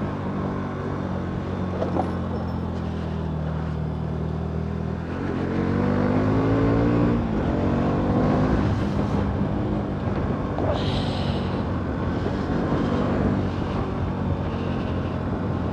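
Bajaj Pulsar NS200's single-cylinder engine running steadily at low revs. About five seconds in it revs up with a rising pitch, then rises and falls with the throttle.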